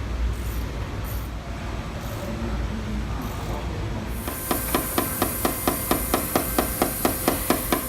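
Paintless dent repair hammer and knockdown tool tapping the steel roof panel in a rapid, even series of light taps, about four a second. The taps start about halfway through and have a slight metallic ring.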